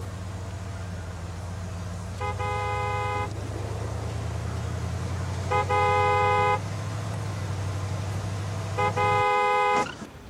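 Car horn honking three times, each blast held about a second, over a steadily running engine that shuts off just before the last blast ends.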